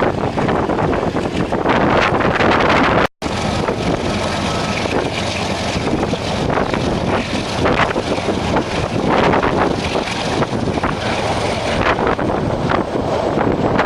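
Wind buffeting the microphone over a steady rushing rumble, with a short dropout about three seconds in.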